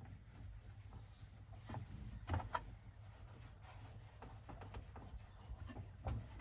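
Hoover DXOA610AHFN-80 washing machine running mid-cycle: a low steady hum with irregular soft knocks, strongest about two seconds in and again near the end.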